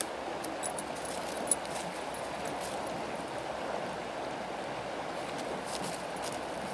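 River rapids: snowmelt water rushing steadily over rocks, with a light click about a second and a half in.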